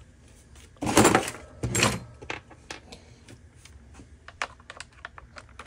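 Workshop handling noises: two short scraping clunks about one and two seconds in, followed by a run of light clicks and taps.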